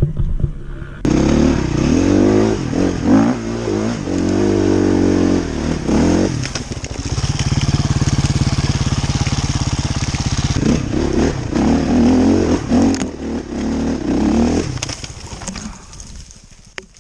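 Enduro dirt bike engine revving hard and falling back repeatedly, held steady at high revs for a few seconds in the middle, then revving up and down again before fading away near the end. It cuts in suddenly about a second in.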